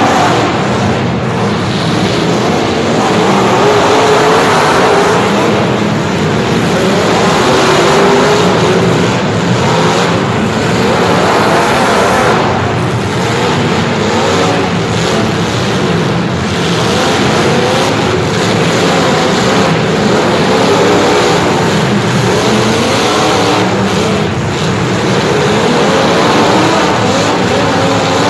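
Motor vehicle engines running loudly and revving, their pitch rising and falling again and again.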